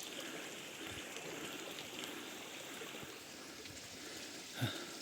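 Faint, steady running water of a small stream, with a short voice sound near the end.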